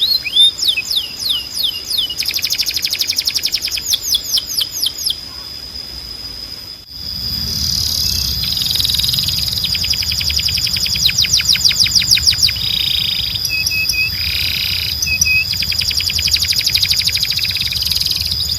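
Domestic canary singing: fast rolling trills of rapidly repeated high notes and quick downward sweeps, phrase after phrase over a steady high whistle tone. The song breaks off briefly about seven seconds in, then resumes over a low hum.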